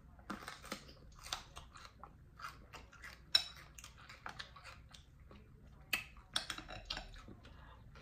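Close-miked chewing and biting of food, with wet, crunchy mouth sounds coming in short irregular bursts. A sharp clink of cutlery comes about three seconds in.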